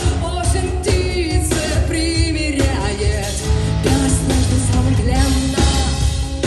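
Live rock band playing a song, with a female voice singing over steady bass and drums.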